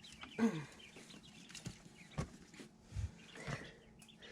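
Young brooder birds peeping faintly and repeatedly, with a few light knocks from handling.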